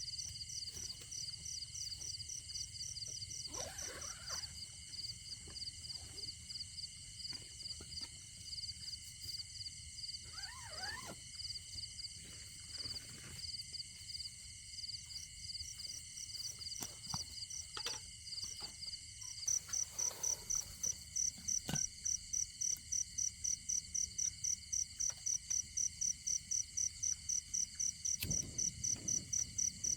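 Crickets chirping in a steady chorus, one cricket becoming louder about two-thirds of the way in with an even pulse of about three chirps a second. A few faint short calls sound lower down near the start and middle.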